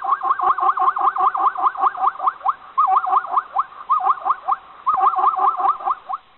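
An animal's rapid chirping call, about eight short sweeping notes a second, given in several runs with brief pauses between them.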